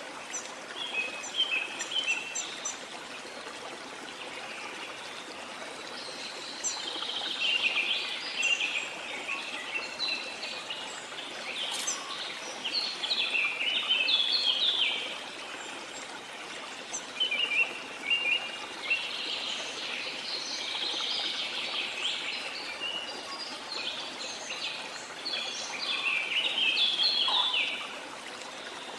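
Birds singing and chirping in repeated bouts of quick phrases over a steady rush of waterfall water.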